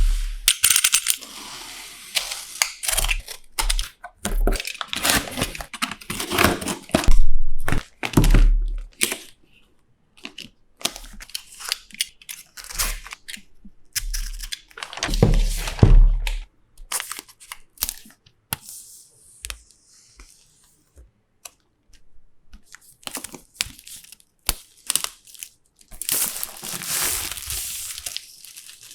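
Hands unboxing an iPad Pro: packaging being torn and crinkling, with irregular clicks and knocks as the box and its contents are handled. It comes in bouts with short quiet gaps, with a long stretch of tearing or rustling near the end.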